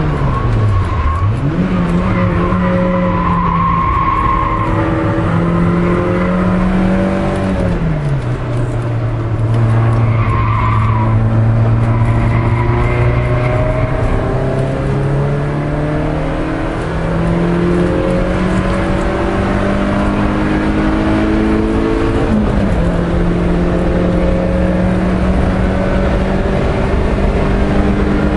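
Peugeot 306 S16's four-cylinder 16-valve engine, heard from inside the cabin, running hard at high revs on a race circuit. The note falls sharply about a second in, bounces back, then drops again about eight seconds in and holds lower for several seconds. It climbs in steps and drops once more near the end. Brief tyre squeal comes in a couple of corners.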